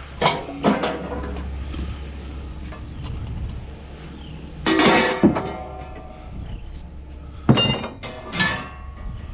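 Scrap metal clanking: several sharp metal-on-metal hits that ring on briefly, two near the start, a longer rattling clatter in the middle and two more near the end. A steady low hum runs underneath.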